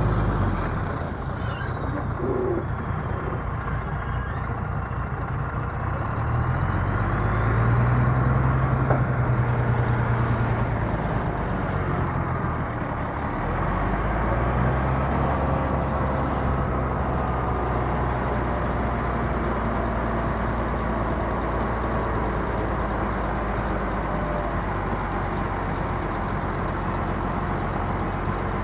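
Komatsu D65EX bulldozer's diesel engine running under load, swelling louder about six to eleven seconds in, dipping briefly, then holding steady. A faint high whine slowly rises and falls in pitch over the engine.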